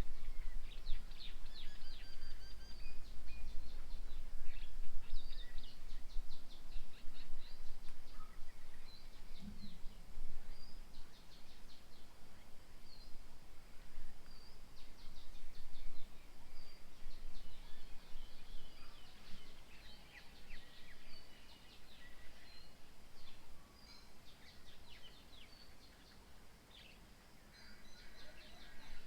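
Small birds chirping and calling in bursts of quick, high trills, with a few short whistled notes between them, over a steady low rumble.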